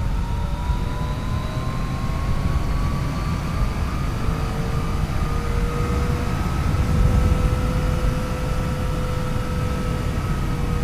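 Yamaha FJ-09's 847 cc inline-three engine running under way while riding, its pitch climbing slowly for the first few seconds and then holding steady. Heavy wind rumble on the microphone sits under it.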